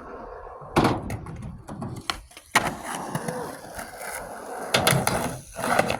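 Skateboard rolling on concrete, with several sharp clacks of the board hitting the ground, at about one, two and a half, five and six seconds in.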